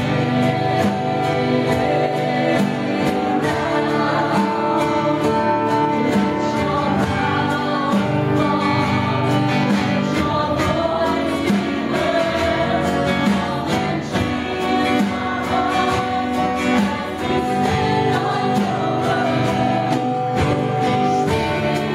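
Live worship music: singers with instrumental accompaniment performing a praise song, with sustained notes and chords throughout.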